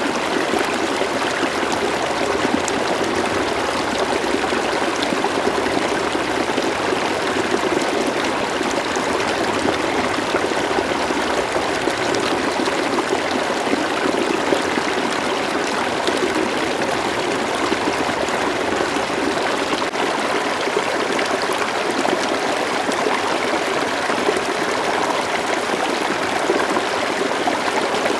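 River water flowing steadily, an even rushing with fine trickling and splashing detail.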